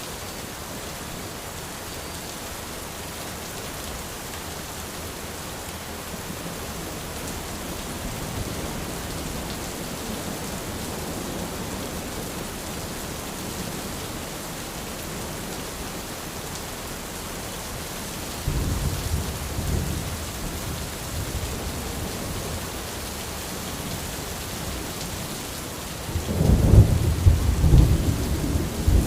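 Steady rain falling on an umbrella with an even hiss. A low rumble of thunder comes about two-thirds of the way in, and a louder one near the end.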